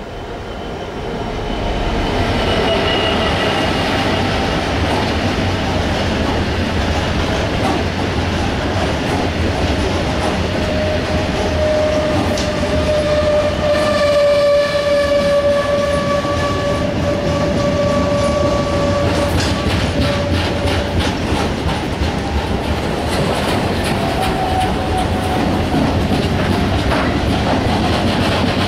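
Freight train hauled by a Class 66 diesel locomotive rolling past close by: a steady rumble with the clatter of wagon wheels over rail joints, building up over the first couple of seconds. A sustained high ringing tone rides over it for about ten seconds in the middle.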